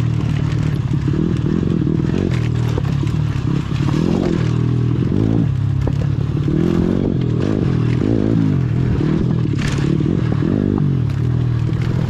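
Pit bike's small single-cylinder four-stroke engine running, the revs rising and falling as it rides a dirt trail, with frequent clicks and knocks from the bike over rough ground.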